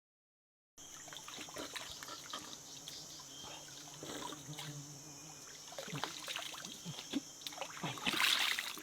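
Faint forest ambience: a steady high insect drone, like crickets, with many small scattered clicks and crackles, and a short louder rustling hiss near the end.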